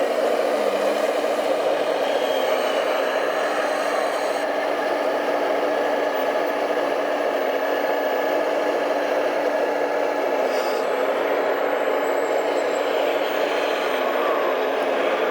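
Electric drive of a radio-controlled model truck running steadily, a continuous motor and gear whir with a brief dip and rise in pitch near the start.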